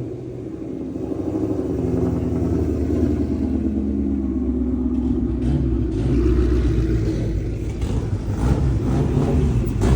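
A car engine running steadily nearby, a low rumble with no revving.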